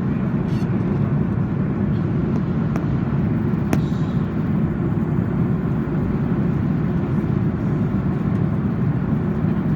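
Steady low rumble of an Airbus A330-200 in flight, heard inside the passenger cabin: engine and airflow noise, with a few faint clicks.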